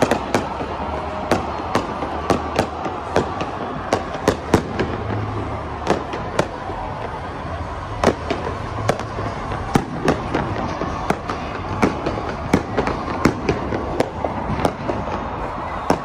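Aerial fireworks going off: a long, irregular run of sharp bangs and cracks, one to three a second, over a steady background din.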